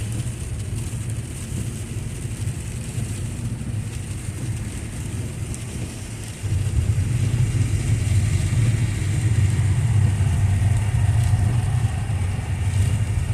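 Car driving in heavy rain, heard from inside the cabin: a steady low road and engine rumble under a hiss of rain and tyre spray, growing suddenly louder about halfway through.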